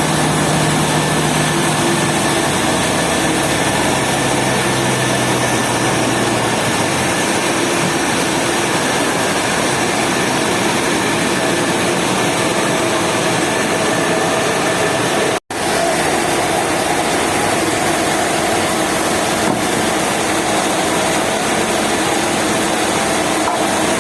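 Power woodworking machinery running steadily: a loud, even motor and cutting noise with a constant hum. It breaks off for an instant about fifteen seconds in and resumes with a slightly different, higher hum.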